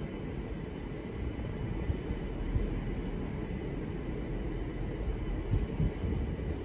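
Belgian electric multiple unit moving slowly along a far station track: a steady low rumble with a faint steady high tone above it.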